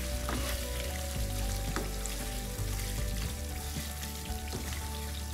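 Chicken in a thick gravy sizzling gently in a nonstick wok on a low flame, stirred with a wooden spatula that makes a few light knocks against the pan.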